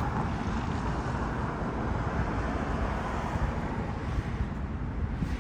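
Steady outdoor background noise with a low rumble, the kind made by road traffic and wind on the microphone.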